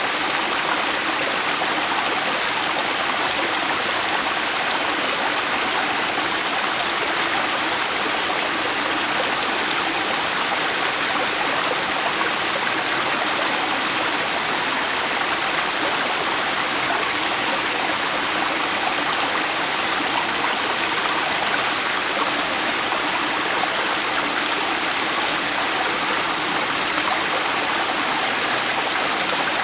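River water flowing steadily over rocks: a constant, even rushing with no breaks or changes.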